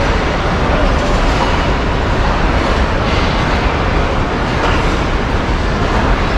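Passenger train coaches rolling along the track beside a station platform, a steady noise of wheels on rail.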